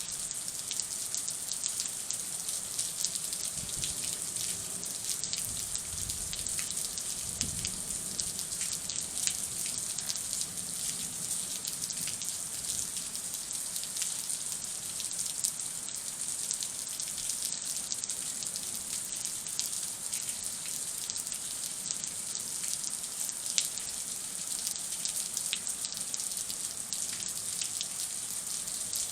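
Heavy rain falling steadily, a dense patter of drops hitting surfaces, with a faint low rumble a few seconds in.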